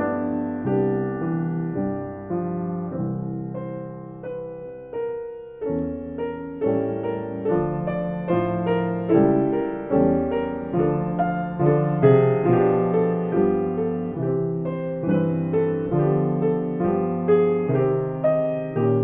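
Solo piano playing a slow piece: chords and notes struck about every half second to a second, each fading away. It softens to a held chord about four seconds in, then picks up again.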